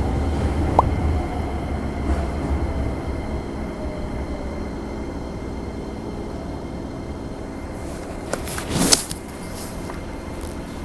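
Train running, heard from inside the carriage: a heavy low rumble that eases off over the first few seconds into a steady hum. There is a brief faint whistle about a second in and a short, loud hiss near the end.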